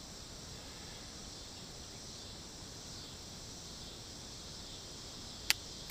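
Steady high-pitched chorus of insects, with one short sharp crack about five and a half seconds in.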